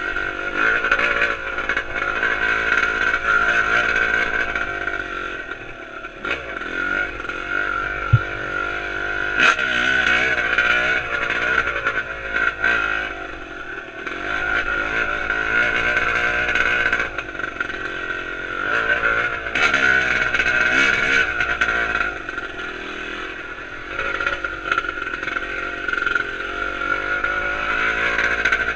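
Yamaha YZ250 two-stroke dirt bike engine running with a broken exhaust, revving up and down over and over. A single sharp knock comes about eight seconds in.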